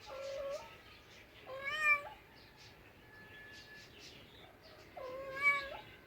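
A cat meowing three times, with short gaps between the meows; the second meow is the loudest.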